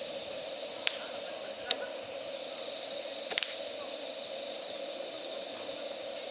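Wood campfire burning, with three sharp crackles about a second apart and then two seconds later, over a steady high insect trill.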